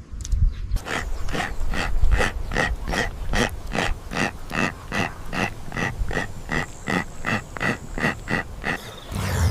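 A puppy yelping over and over in distress, short high cries at about three a second.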